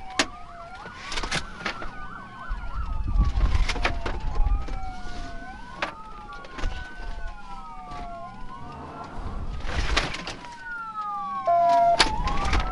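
Police car sirens wailing, several overlapping and sweeping up and down in pitch about every two seconds, over engine and road rumble. Scattered sharp clicks, and a short steady tone near the end.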